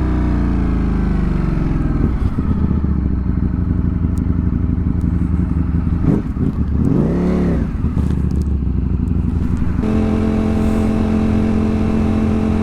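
Ducati motorcycle engine heard from the rider's own bike: the revs fall as it slows, a brief rev rises and falls about seven seconds in, and the engine settles into a steady note near the end.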